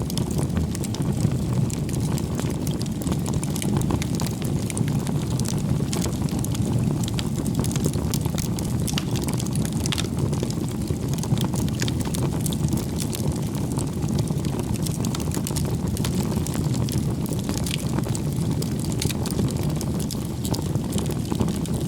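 Wood campfire burning: a steady low rumble of flame with frequent small crackles and pops from the burning firewood.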